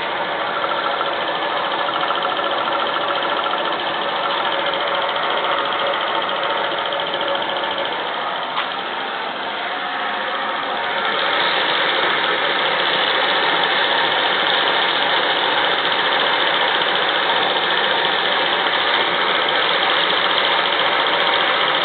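Steam engine running steadily, getting louder about eleven seconds in.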